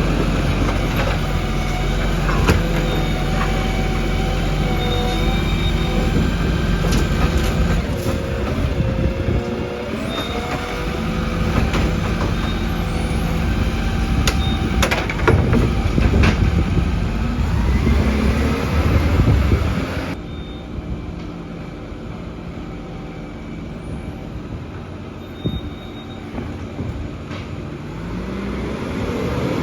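Garbage truck running, with loud metal clanks and short whining tones over the engine. About two-thirds of the way through, the engine revs up and the sound suddenly drops to a quieter vehicle sound, which swells again near the end.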